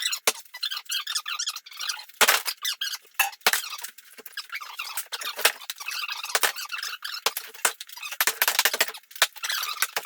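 Shower demolition: irregular scraping, crackling and squeaky rubbing of tile and debris being pried and broken, with several sharp knocks, the loudest about two seconds in.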